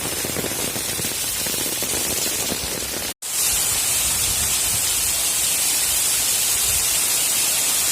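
Heavy rain falling steadily, a dense hiss of drops. It cuts out for an instant about three seconds in, then comes back with a brighter, higher hiss.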